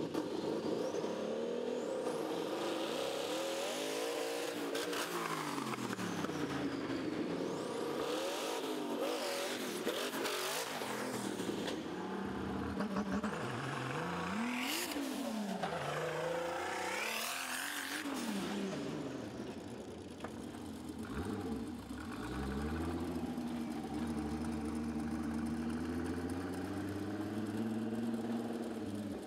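Hot-rodded drag-racing tractor engines revving hard, the pitch climbing and dropping again and again, with high whistling sweeps over the top partway through. About 22 seconds in, an engine settles into a steady, lower-pitched run.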